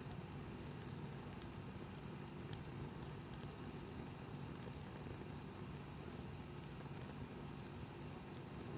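Wood campfire burning, with a low steady rush and a few sparse small crackles. Over it an insect chirps in short trains of five or six high pips, a couple of seconds apart.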